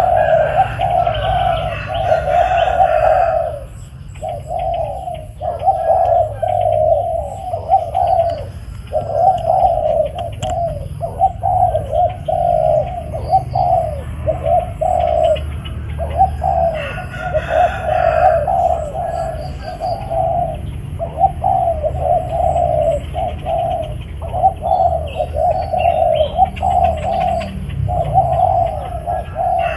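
Spotted dove cooing over and over, phrase after phrase with only short breaks, with a few higher chirps from another bird at times.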